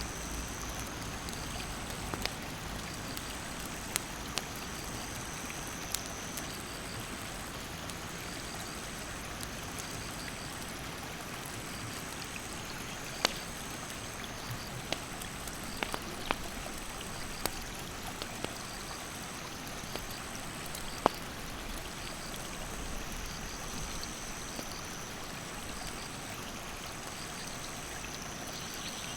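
Mountain stream rushing steadily, with a wood campfire giving sharp crackles and pops now and then. A faint, high-pitched chirp repeats at an even pace throughout.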